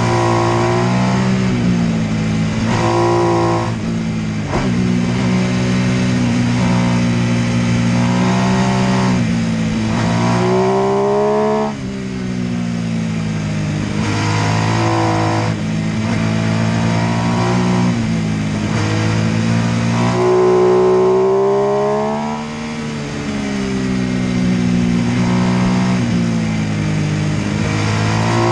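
MV Agusta F3 800's three-cylinder engine revving up hard and dropping back again and again, with sharp falls in pitch as the throttle closes between pulls.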